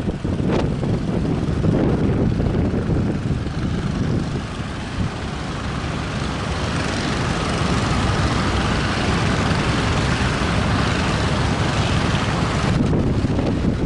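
Strong wind rumbling over the microphone together with the drone of a boat engine. A hiss builds about six seconds in and cuts off suddenly near the end.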